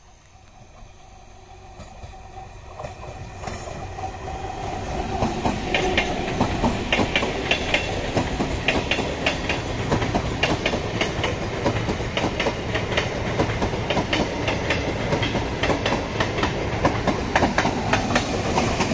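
Indian Railways MEMU electric local train approaching and passing close by, wheels clacking over rail joints in a quick, uneven rhythm. It swells louder over the first five seconds, then stays loud as the coaches run past.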